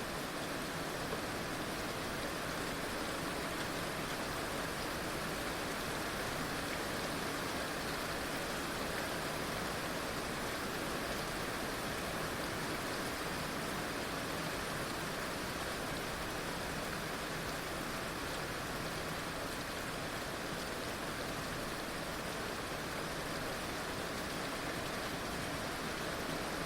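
Heavy rain falling steadily, an even wash of noise with no distinct drops or breaks.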